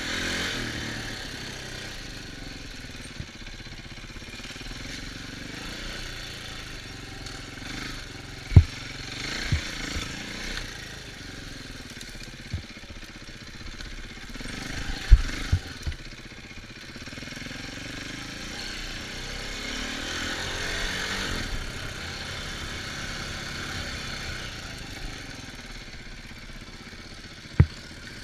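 An off-road vehicle engine running, its pitch rising and falling with the throttle. A few sharp low thumps stand out as the loudest moments.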